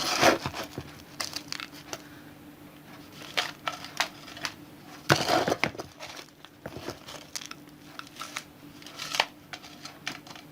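A spoon scooping gritty potting soil and tipping it into a bonsai pot, in irregular crunching, rustling bursts, the biggest about halfway through. A faint steady hum runs underneath.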